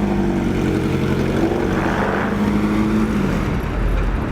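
Car engines running nearby, a steady low engine drone.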